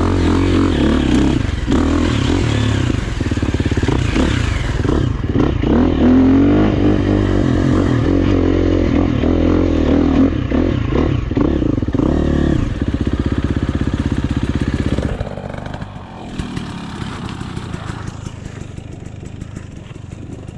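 Dirt bike engine running hard on a trail ride, its revs rising and falling, then dropping to a much quieter level about fifteen seconds in.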